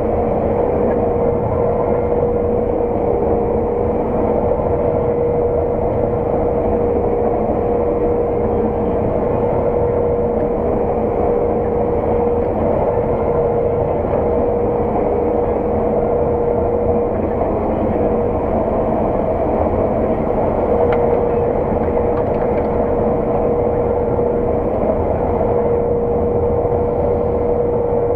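Steady drone of a harvesting farm machine heard inside its cab, with a constant high whine over the engine noise that drops out briefly about two-thirds of the way through.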